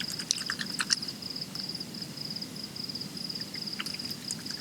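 Crickets chirping in a steady high trill of rapid pulse trains, with a few short sharp clicks in the first second.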